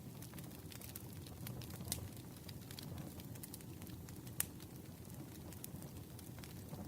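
Campfire crackling: a low steady rumble of burning wood with scattered sharp pops, one louder pop about four and a half seconds in.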